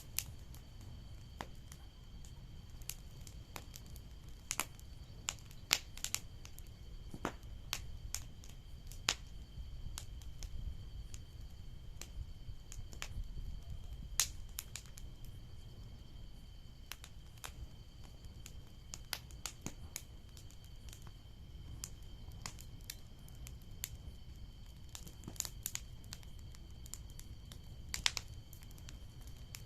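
Bonfire crackling, with irregular sharp pops and snaps of burning wood over a steady low rumble.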